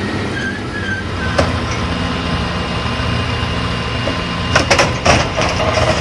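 A heavy vehicle's engine running steadily, with a sharp click about a second and a half in and a cluster of knocks and clatters near the end.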